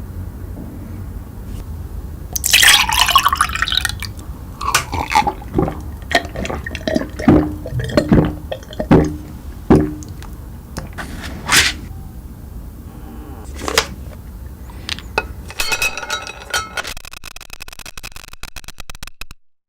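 Liquid being poured and dripping, loudest in a few seconds of pouring near the start, followed by a series of separate knocks and clinks and a crackling patch near the end.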